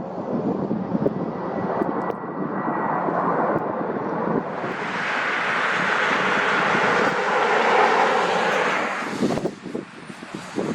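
Aircraft engine noise over wind on the microphone. It swells into a loud, even rush about halfway through, then drops off suddenly near the end.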